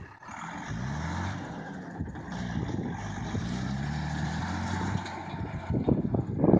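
SEE tractor's diesel engine revving up under load several times, its pitch climbing and easing with each push of the loader. Rough, louder bursts of noise come in near the end.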